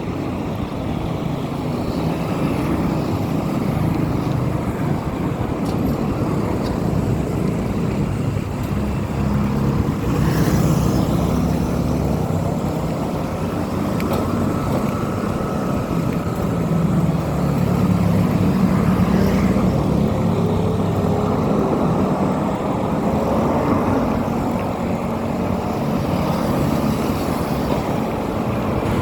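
Steady running noise of a road vehicle on the move, a low hum that swells and eases slightly without stopping.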